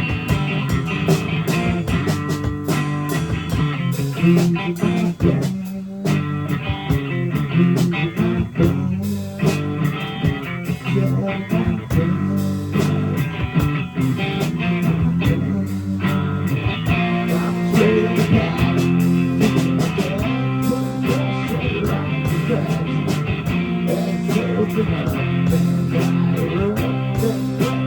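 Live rock band playing an instrumental passage, with guitars and bass over drums.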